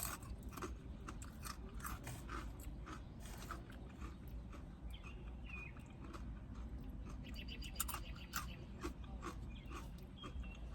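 A person chewing crunchy food close to the microphone, with many small, irregular crisp crunches.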